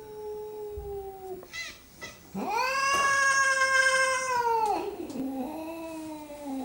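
Domestic cats caterwauling in a standoff: long, drawn-out yowls. One rises sharply about two and a half seconds in, is held for about two seconds, then drops into a lower, wavering moan.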